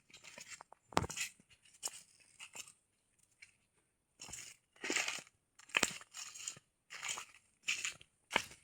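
Footsteps crunching through dry leaf litter and twigs on a forest path, an uneven series of crunches with a short pause in the middle.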